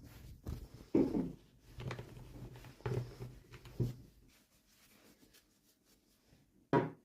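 Hands handling toy packaging and small plastic doll pieces during an unboxing: a few short rustles and soft knocks, with a sharper knock near the end.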